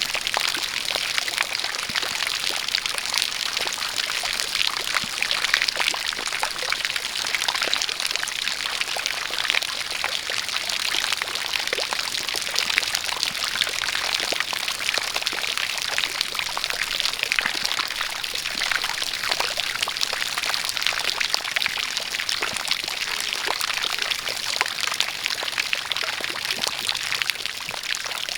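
Steady splashing of falling water, a pouring stream of water mixed with rain, with many small drops pattering.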